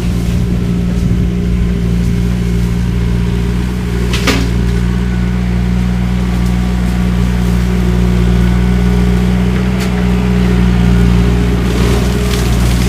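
Skid steer engine running steadily at high revs, driving a hydraulic shredder head through cane. Two short sharp cracks come through, about four seconds in and again near ten seconds.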